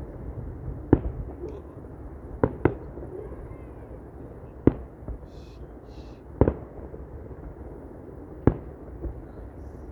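Fireworks shells bursting: six sharp bangs at uneven intervals, two in quick succession about two and a half seconds in, over a steady low background rumble.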